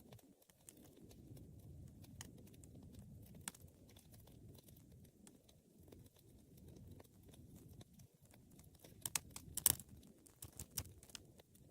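Wood fire burning: a low, steady rush of flames with scattered crackles and pops, and a quick run of louder pops about nine to ten seconds in.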